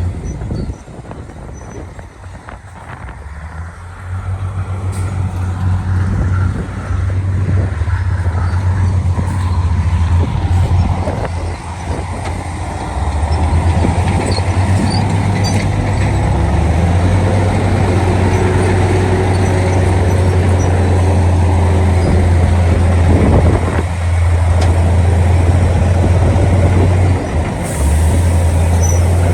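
Heavy diesel construction machinery running: a deep, steady engine drone that dips for the first few seconds, builds back up about four seconds in and grows louder again around the middle.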